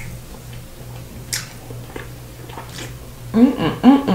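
Close-miked chewing of fried pork chop, with a few soft wet smacks. About three seconds in, a rhythmic closed-mouth "mm-mm" humming of enjoyment starts over the chewing.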